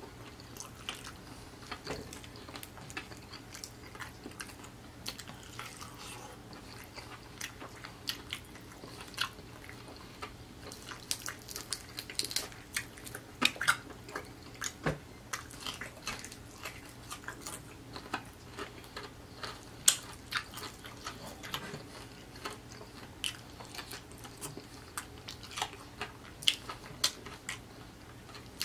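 Close-miked eating sounds of a man chewing homemade fried chicken, with many irregular, short, wet clicks and smacks of the mouth.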